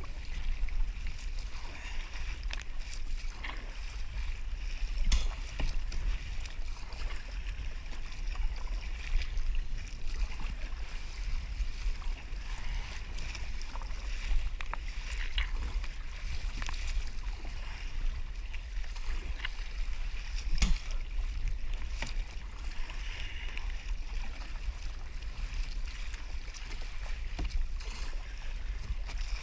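Wind rumbling on the microphone over water lapping against a kayak hull at sea, with a few faint knocks and clicks scattered through.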